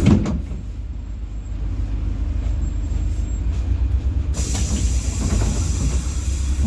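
Inside a PAZ-4234 bus: the engine and running gear drone steadily and low, with a single knock right at the start and a hiss that comes in about four seconds in.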